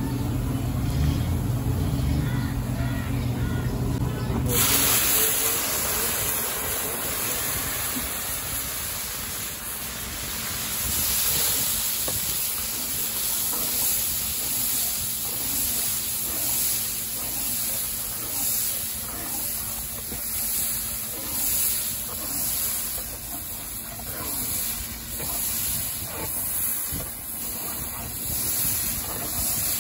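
Onions frying in oil in a large karahi, stirred with a slotted ladle. About four and a half seconds in, a loud steady hiss of steam starts as the meat goes into the hot oil, and it keeps sizzling.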